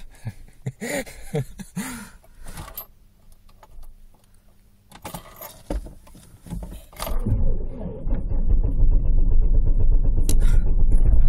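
Rustling and keys jangling, then about seven seconds in a Saab 9-3's engine starts and settles into a loud, steady idle with a low rumble. The car has a known exhaust leak. A couple of sharp ticks come near the end.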